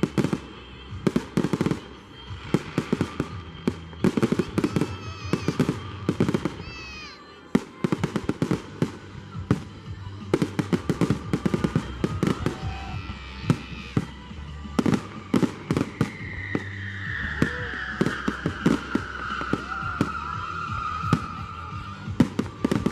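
Fireworks display: a rapid, continuous run of bangs and crackles over music, with a long falling whistle in the last few seconds.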